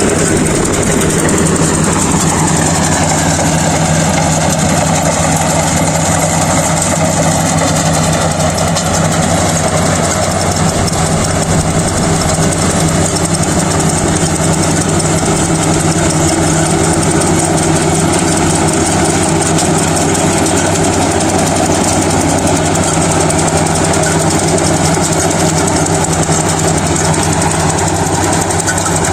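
Kubota DC-35 rice combine harvester running steadily under its diesel engine, a constant loud machine drone. The pitch sags slightly in the first couple of seconds, then holds even.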